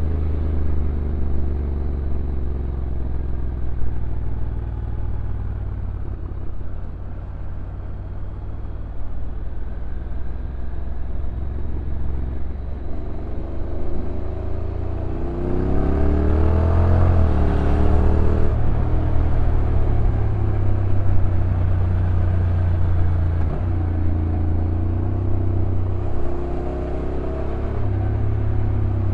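Honda NC750X motorcycle with its stock 745 cc parallel-twin engine running under way. About halfway through, the engine pitch climbs for several seconds and then drops abruptly as the dual-clutch transmission shifts gear. After that it settles, with smaller rises and falls.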